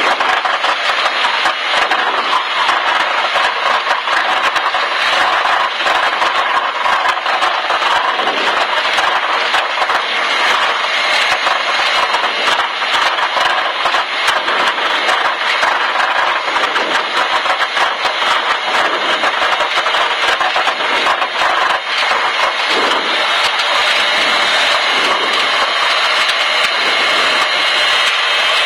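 Cessna 152's four-cylinder Lycoming engine and propeller running steadily at low taxi power, heard from inside the cabin.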